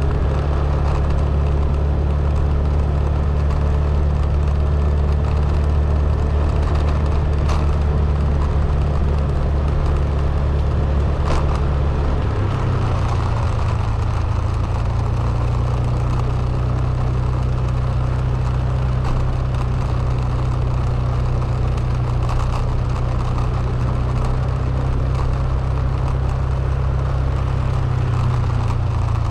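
Vehicle engine running steadily with a low hum; its pitch shifts about twelve seconds in, as with a change of speed or gear.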